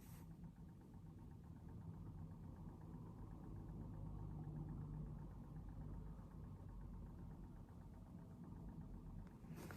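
Faint, steady low hum of room background noise, with a soft click near the end.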